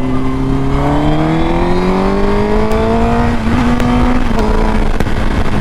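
Honda Fireblade's inline-four engine pulling under acceleration, rising steadily in pitch, then dropping suddenly a bit past halfway as it shifts up, and running on steadier at the lower pitch.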